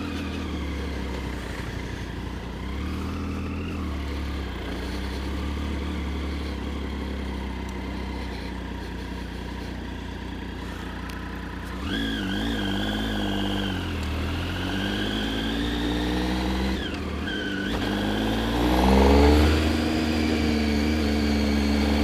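Triumph Street Triple 675's inline three-cylinder engine running at low speed, then accelerating about halfway in with a rising pitch. The pitch drops briefly about three quarters of the way in and climbs again, loudest shortly before the end.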